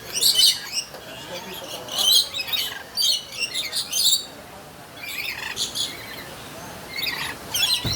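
Lorikeets calling in repeated short bursts of shrill chirps and screeches, several birds at once.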